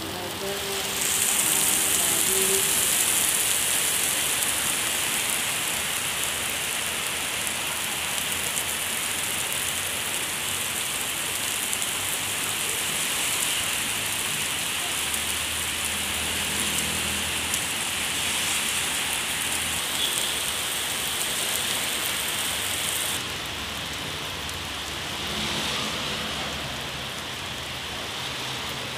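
Heavy rain pouring onto a wet asphalt car park: a dense, steady hiss that thins out about two-thirds of the way through.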